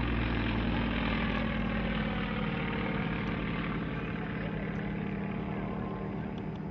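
Two Yakovlev trainers' radial piston engines and propellers droning steadily as they fly by in formation, loudest at the start and slowly fading away.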